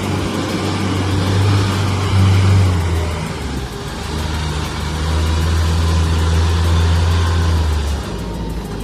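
Log truck's diesel engine running under load, a steady low drone that eases off about three seconds in, picks up again, and drops back near the end.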